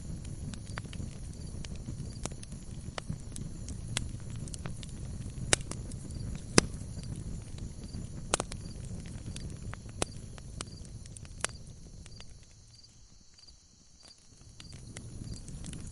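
Log fire crackling in a fireplace: a low steady rumble of burning with scattered sharp pops and snaps, the loudest about five and a half and six and a half seconds in. The sound drops away briefly about twelve seconds in and then comes back.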